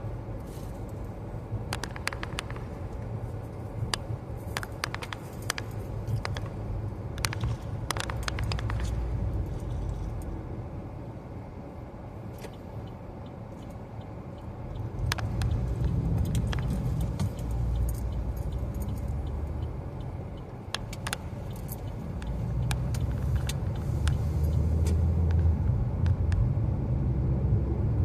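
Car driving, heard from inside the cabin: a steady low road-and-engine rumble that swells louder at times. Scattered light clicks and jingles, mostly in the first third.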